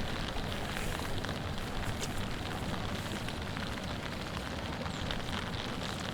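Light rain falling steadily, with many small scattered drop ticks over an even hiss.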